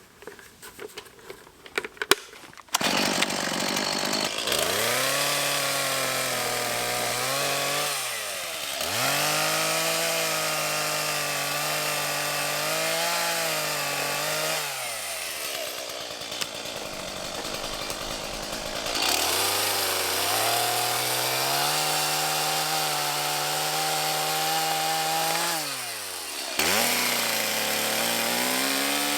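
Chainsaw starting up and cutting through wood, its engine held at high revs under load. The revs drop away and come back up about three times.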